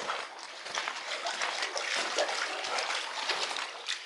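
Irregular splashing and sloshing of footsteps wading through shallow floodwater.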